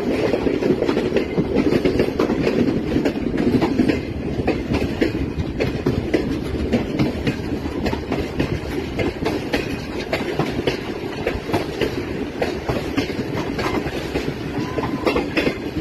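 Train running on the track, its wheels clattering rapidly and continuously over the rail joints over a steady rumble. It is a little louder in the first few seconds.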